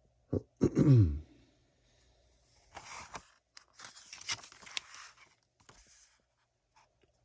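A short throat-clear falling in pitch, then the rustle and crinkle of magazine pages being handled and turned in several bursts over about three seconds.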